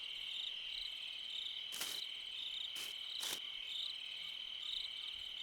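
Night chorus of crickets trilling steadily. About halfway through come three short, sharp rustles or taps.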